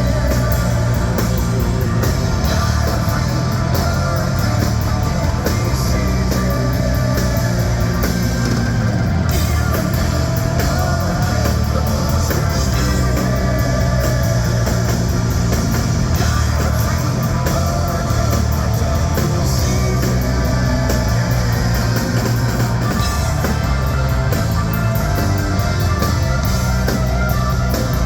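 Hard rock band playing live with electric guitar, bass and drums, loud and unbroken throughout.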